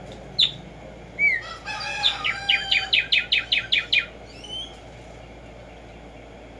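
Black-striped sparrow (Tumba Yegua) singing: a single sharp note, then a few whistled notes that run into a quick series of repeated down-slurred notes, speeding up slightly, over about a second and a half.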